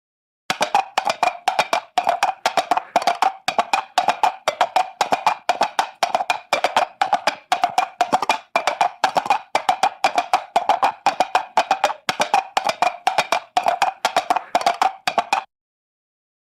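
Horse hooves clip-clopping in a fast, steady rhythm of hollow knocks, about four to five a second, starting about half a second in and cutting off suddenly near the end.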